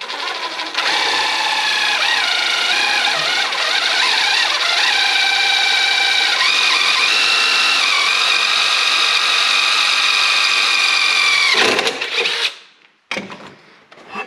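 Electric drill running under load while boring a pilot hole, its motor pitch wavering as the bit bites, then winding down with a falling whine about 12 seconds in.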